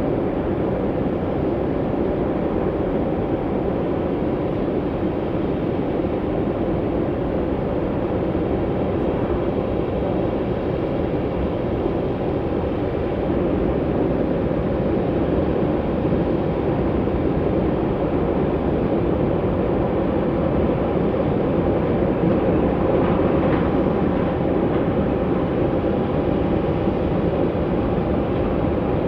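Jet airliner engines running, heard as a steady, even rumble with a faint whine in it, growing slightly louder about halfway through.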